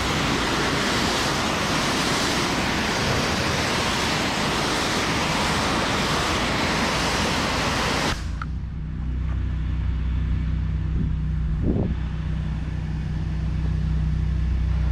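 Pressure washer wand spraying water onto concrete, a loud steady hiss that cuts off abruptly about eight seconds in as the trigger is released. Under it, the pressure washer's engine runs steadily throughout.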